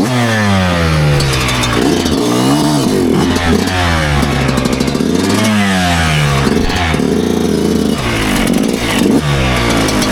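Two-stroke single-cylinder engine of a 2009 Yamaha YZ125 dirt bike being ridden, its revs rising and falling several times.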